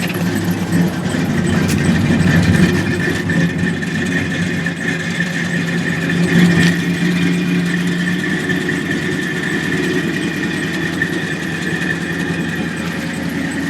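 Ford 302 (5.0-litre) V8 running at idle shortly after a cold start, heard from the exhaust at the back of the car. It is steady, with slight swells twice and a faint steady high-pitched whine over it.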